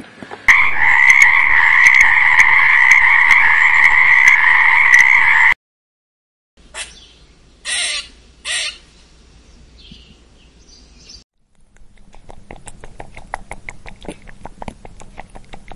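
A run of animal sound clips in turn. First, a loud, steady chirring chorus for about five seconds. Then, after a short gap, three short sharp squirrel calls about a second apart. Then a fast run of soft clicks.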